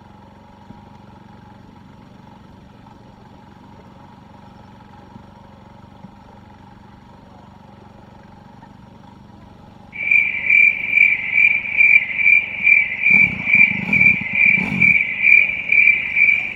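A faint steady hum, then about ten seconds in a loud cricket-like insect chirping starts abruptly, a high pulsing trill repeating about two to three times a second.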